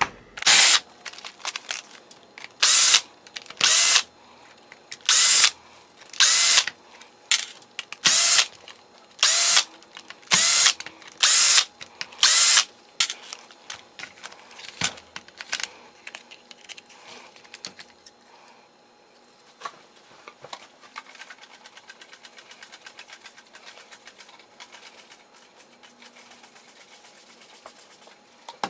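Cordless drill/driver motor run in about a dozen short trigger bursts over the first half, each under half a second, followed by quieter handling with faint, fast, even ticking.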